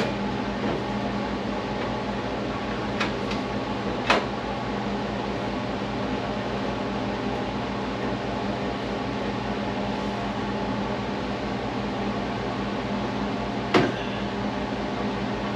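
Steady mechanical hum, like a fan or air conditioner, with three brief sharp clicks or knocks: one about three seconds in, a louder one about four seconds in, and another near the end.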